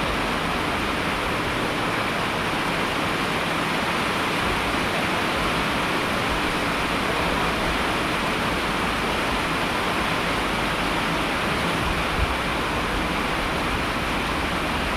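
Steady heavy rain: an even, unbroken hiss with no single drops or gaps standing out.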